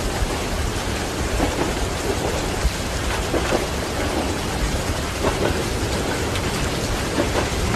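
Steady heavy rain with scattered individual drops, over a continuous low rumble of thunder.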